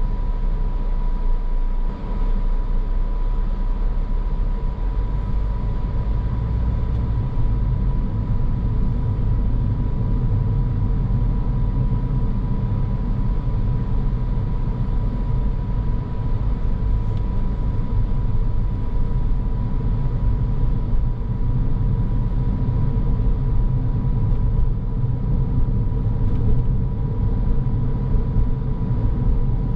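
Car driving along, a steady low rumble of road and engine noise with a thin steady tone above it.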